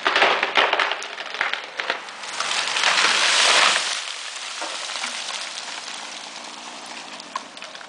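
Big tree falling after being felled with a chainsaw: a series of sharp cracks and snaps, then a loud rushing crash of the trunk and branches going down between about two and four seconds in, fading into a settling rustle.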